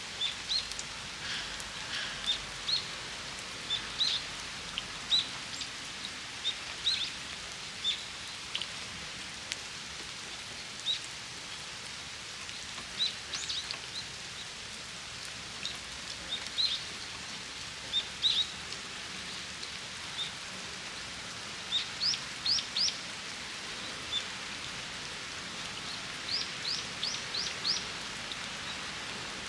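Steady rain falling on a flower-filled shrine water basin, with a small bird giving short, high chirps throughout, including quick runs of four or five notes about three-quarters of the way through and near the end.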